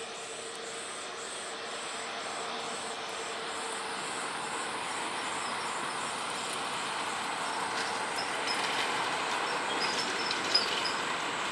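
Steady jet engine noise of an Airbus A330-300 with Rolls-Royce Trent 700 turbofans departing after take-off, swelling a little toward the end.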